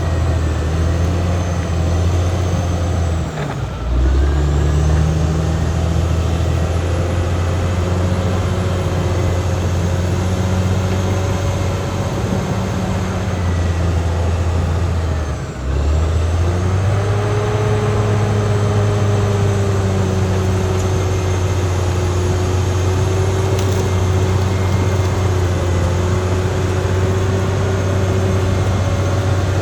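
Caterpillar D6R XL bulldozer's diesel engine running steadily under work, with a higher whine above the engine note. The engine note dips briefly twice, about three and a half seconds in and about fifteen seconds in, and after the second dip it comes back higher.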